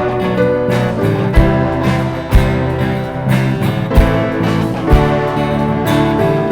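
Live band music carried by guitar, with sustained notes and a low drum thump about once a second.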